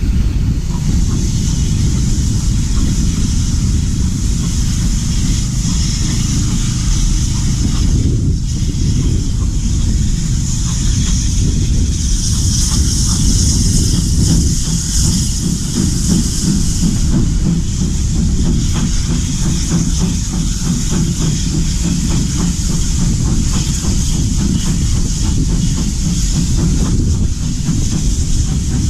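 Heritage train running along the track, heard from aboard: a steady low rumble of the carriage and wheels with a hiss over it that swells for a few seconds in the middle.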